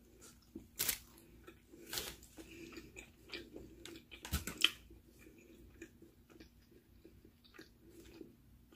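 Close-miked chewing of a mouthful of egg breakfast sandwich, with irregular sharp clicks from the mouth, the loudest about four and a half seconds in.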